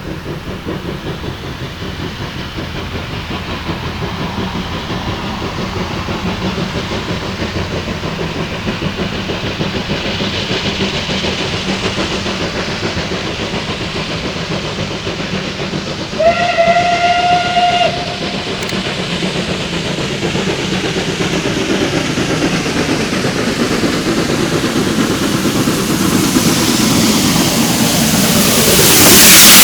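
Oil-fired 2-10-0 steam locomotive 555.3008 running with a train, growing steadily louder as it approaches. About sixteen seconds in it sounds its steam whistle once for nearly two seconds, and near the end it passes close by, much louder.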